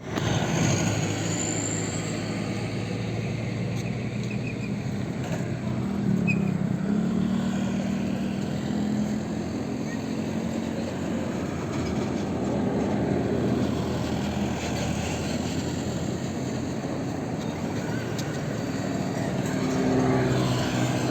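BB 303 diesel-hydraulic locomotive's engine running steadily as it hauls a passenger train away from the station. The engine note rises in pitch about six seconds in.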